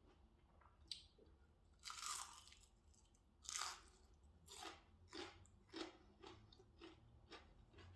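A person biting into a crispy battered onion ring: two loud crunches about two and three and a half seconds in, then chewing with a run of shorter crunches about twice a second.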